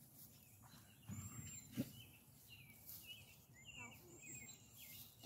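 Faint birdsong: small birds chirping repeatedly in short rising and falling notes. A brief low thump a little under two seconds in stands out above it.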